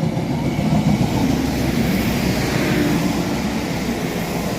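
Diesel passenger train passing through the station at express speed: engine hum under a wash of wheel and rail noise that swells at about its midpoint, with a faint falling whine as it goes by.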